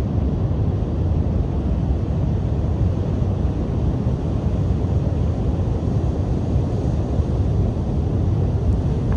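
Strong coastal wind buffeting the microphone as a steady low rumble, with waves breaking on the shore beneath it.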